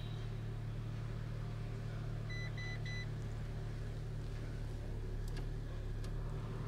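2007 Fiat Palio 1.8R's four-cylinder engine idling steadily, heard from inside the cabin. Three short electronic beeps sound about two and a half seconds in, and the fan-speed knob clicks a couple of times near the end.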